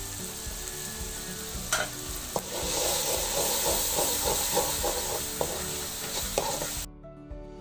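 Onion-tomato spice paste sizzling in a wok as it is stirred with a spoon, with a couple of sharp knocks of the spoon against the pan. The frying hiss grows louder about two and a half seconds in, then cuts off abruptly near the end, leaving background music.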